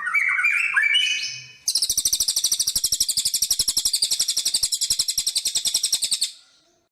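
Songbird song from a sekoci and white-rumped shama tutor recording: a few quick gliding whistled notes, then from about two seconds in a high, rapid, buzzy trill of fast repeated notes that stops shortly before the end.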